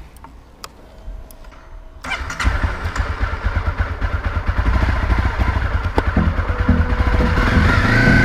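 Honda CRF250 dirt bike's single-cylinder four-stroke engine starting about two seconds in, after a few faint clicks, then running and gradually getting louder.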